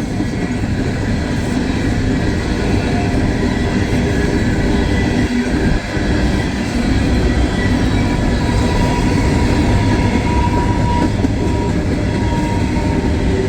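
Empty coal hopper cars of a long freight train rolling past, with the steady rumble and rattle of steel wheels on the rails.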